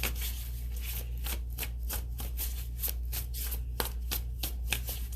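Tarot deck being shuffled by hand: an irregular run of sharp card clicks and snaps, about three or four a second, over a steady low hum.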